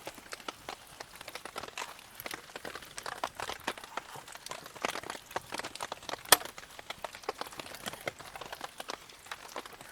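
Wood campfire crackling with irregular small pops and one sharp, loud pop about six seconds in, while rain drips.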